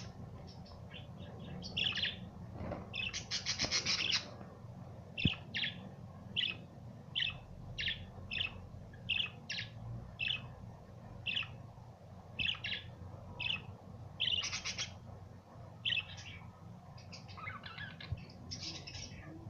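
Budgies chirping: a run of short, high chirps, one or two a second, with denser bursts of chatter about three to four seconds in and again near fifteen seconds.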